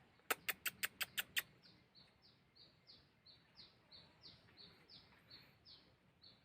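Kolibri wulung sunbird lure call: a quick run of seven sharp clicks, then a high two-note song repeated over and over, a falling note alternating with a short level one.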